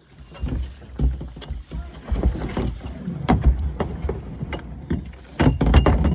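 Kayak hull knocking and scraping against logs in a log jam, with irregular heavy thumps and several sharp knocks.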